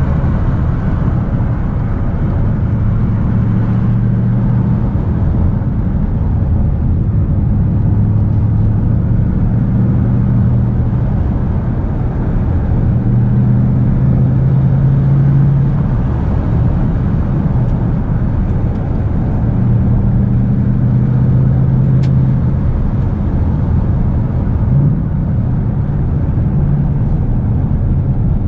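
Ford Mustang GT's 5.0-litre V8 running at cruising revs, heard from inside the cabin over steady tyre and road rumble. The engine note swells and eases as the car takes the bends, with a short rise in revs near the end: a rev-matched downshift from fourth to third gear.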